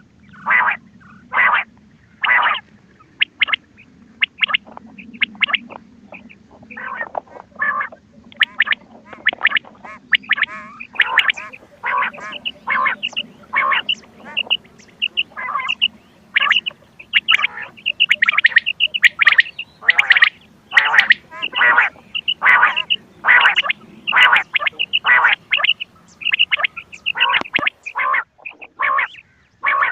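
Quail calls on a hunting lure recording: short, sharp calls repeated over and over, spaced out at first and then crowding into a rapid, almost continuous run from about ten seconds in. A low hum lies underneath and drops out near the end.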